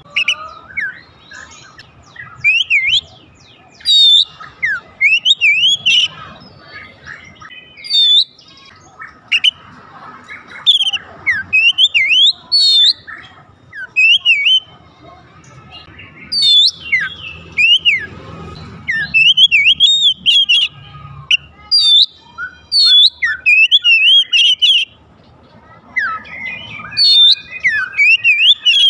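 Oriental magpie-robin (kacer) singing in bursts of rapid, varied whistled phrases with sweeping and chattering notes, broken by short pauses.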